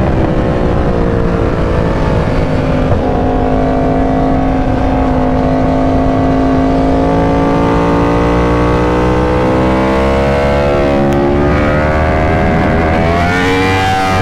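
Yamaha R1's crossplane inline-four through an Austin Racing exhaust, running at fairly steady revs that sag slowly, then climbing in pitch near the end as the throttle opens.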